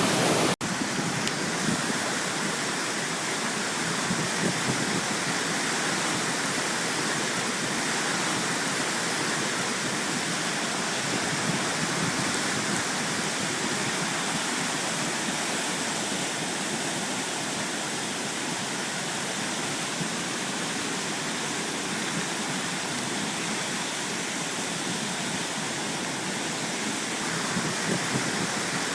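A flooded mountain brook rushing in full spate, a steady roar of fast water. It breaks off for a moment about half a second in, then carries on unchanged.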